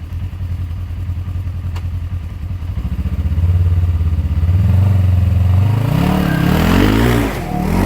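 Polaris RZR side-by-side's engine working on a steep muddy climb, running low and pulsing, then revved hard near the end in rising and falling sweeps as the throttle is worked.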